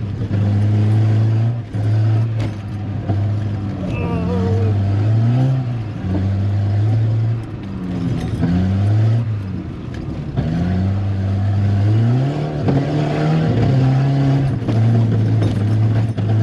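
Volvo 740 Turbo's turbocharged four-cylinder engine running hard under load in the mud, held mostly at a steady high pitch that drops and climbs back several times as the throttle is lifted and pressed. The car is kept in second gear and bogged to find grip.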